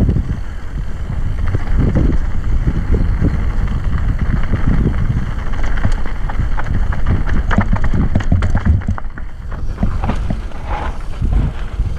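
Mountain bike descending a rough trail: wind buffeting the microphone and tyres rumbling over dirt and rocks, with many sharp rattles and clacks from the bike, thickest in the second half.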